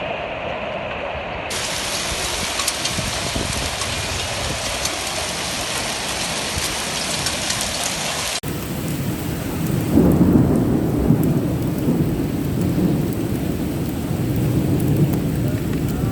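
Heavy rain pouring down, a steady dense hiss, heard in several clips joined one after another. From about ten seconds in, a louder, deeper rumble comes in under the rain.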